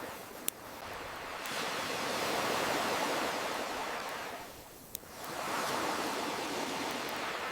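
Ocean surf washing in and out in two slow swells. Two single sharp pops from a campfire come in the lulls, about half a second in and about five seconds in.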